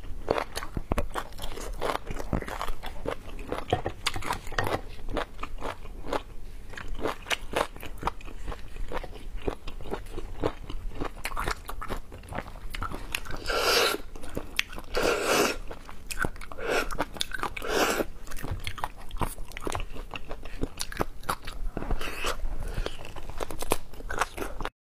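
A person chewing and biting braised beef on the bone and its marrow, close to the microphone: a steady run of short crunching and chewing clicks, with a few longer sounds around the middle.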